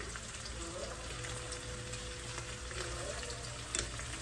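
Food sizzling steadily in a hot frying pan, with one light click near the end.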